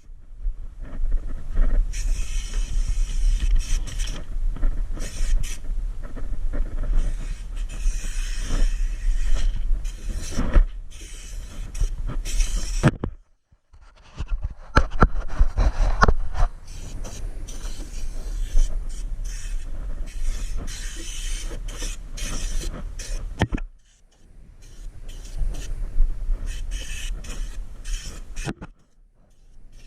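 Compressed-air spray gun hissing in long bursts while applying Noxudol rust-proofing, with short pauses about 13 and 24 seconds in and again near the end.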